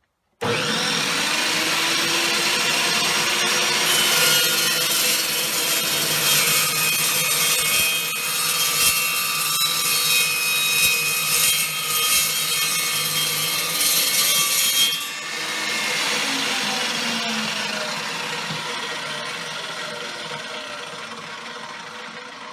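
Evolution EVO380 chop saw starting up, then its carbide-tipped blade cutting through steel stock for about ten seconds with a harsh, shrill ringing. The cut ends abruptly, and the motor and blade wind down, fading away. The cut leaves no appreciable heat in the metal, the mark of a cold-cutting saw.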